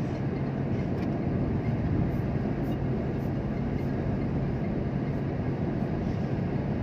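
A vehicle running steadily: a continuous low rumble with a steady hum, unchanging throughout.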